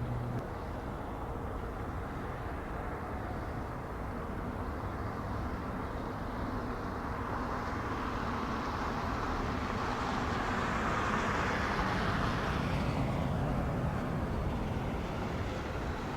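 Boeing 777-200LR's GE90 jet engines on a landing approach: a steady engine rush that grows louder, peaks about twelve seconds in, then eases as the airliner passes.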